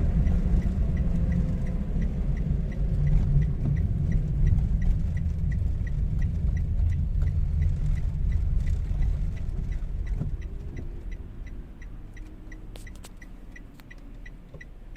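Toyota Wigo's three-cylinder engine idling roughly with a misfire, here on cylinder 2 after the faulty ignition coil was moved there from cylinder 1. A fast, even light ticking runs over the rumble, and the rumble drops in level about ten seconds in.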